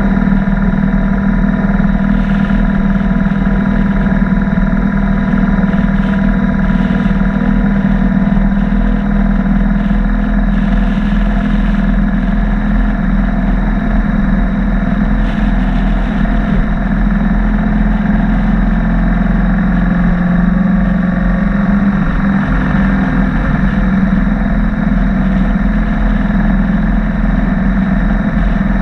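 BMW R1200 motorcycle's boxer-twin engine running steadily at an even pitch, without revving.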